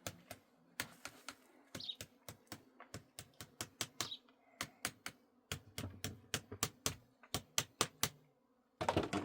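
A quick, uneven series of sharp taps or knocks, about three to five a second, which stops shortly before the end and is followed by a brief denser clatter.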